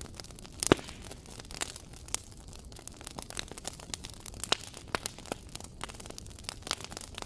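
Wood fire burning in a fireplace, crackling with irregular sharp pops and snaps over a soft hiss, the loudest pop about a second in.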